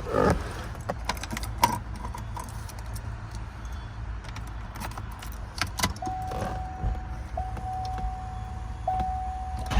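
Car keys jangling and clicking as the key is put into the ignition of a 1992 Chevrolet Corvette. About six seconds in, a steady electronic warning tone starts, broken twice briefly.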